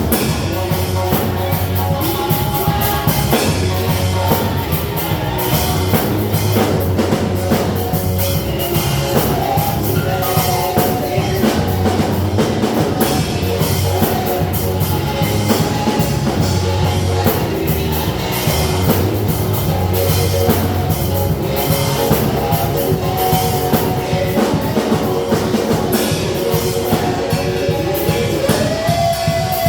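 A live worship band playing instrumental rock-style music, with a drum kit keeping a steady beat under guitar and sustained keyboard or guitar chords.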